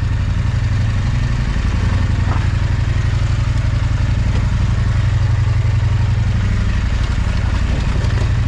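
Big adventure motorcycle's engine running steadily at low revs while riding slowly over rocky ground, with an occasional faint knock.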